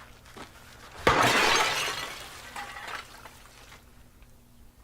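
A sudden smashing crash about a second in, as something breaks and the pieces scatter and settle over about two seconds.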